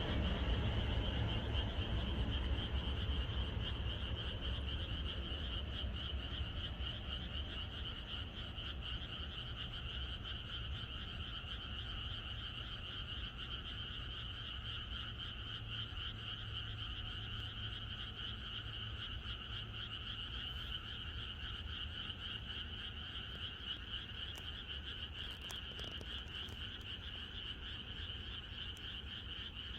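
Chorus of many frogs calling together without a break, a dense fast-pulsing trill. A low rumble underneath fades away over the first several seconds.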